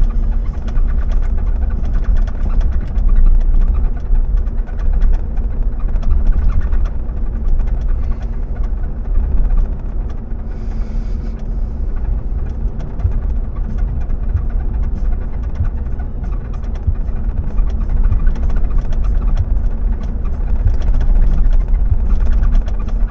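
A car driving, with steady low engine and road rumble and scattered small clicks and rattles.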